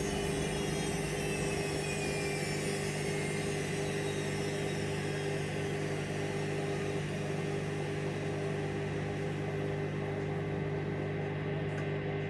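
Hoover Vision Dynamic washing machine running steadily with a motor hum. A high whine falls in pitch over the first few seconds.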